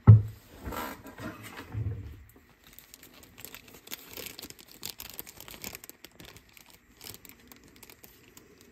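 A sharp knock, then plastic packaging crinkling and tearing, followed by scattered small crackles and clicks as the packet is handled. This fits a bag of replacement belts being opened.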